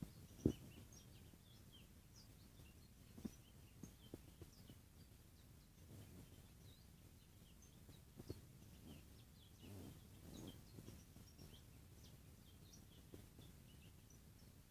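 Faint, scattered high chirps of small birds over quiet background noise, with a few soft thumps. The loudest thump comes about half a second in.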